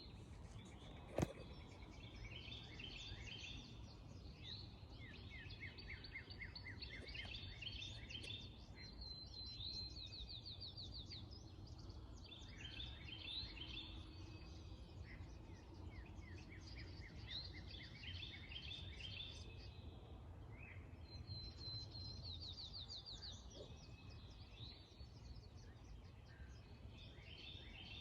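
Songbirds singing, with repeated rapid trills of short high notes, over a steady low rumble of background noise. A single sharp click about a second in.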